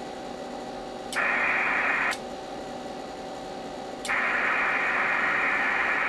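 Icom IC-718 HF transceiver being keyed in RTTY mode: each switch between transmit and receive makes a sharp click, and between clicks comes steady hiss through the speaker, once for about a second and once for nearly three seconds.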